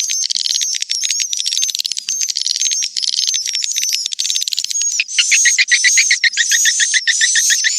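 Swiftlet lure call recording: dense, continuous high-pitched twittering and chirping of edible-nest swiftlets, played to attract swiftlets to nest. About five seconds in, a faster and louder run of rapid chirps sets in.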